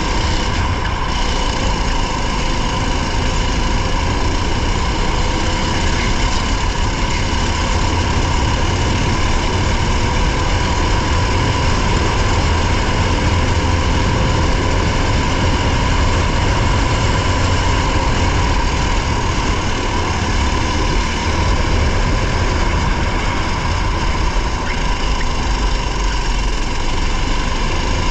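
Onboard sound of a race vehicle's engine running at a steady high pitch, with heavy low rumble from wind and road.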